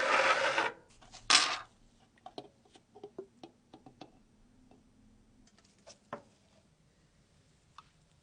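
Zippo lighter being handled: two short rasping scrapes, the first right at the start and the second about a second later, followed by a scatter of light clicks and taps.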